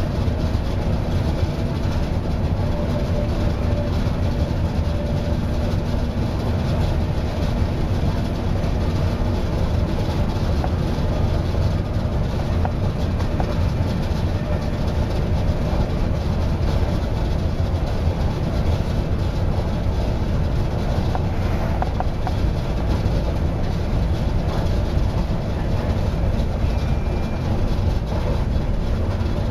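Passenger train carriage in motion, heard from inside by the doors: a steady low rumble of the wheels and running gear on the track.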